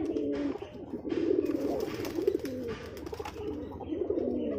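Several domestic pigeons cooing in a loft, their calls overlapping without a break.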